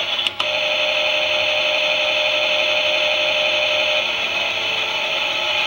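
The small electric motor of a Klein toy Miele washing machine whirring steadily with a wavering whine. A click comes just after the start, and a steady tone sounds with the whirr until about four seconds in.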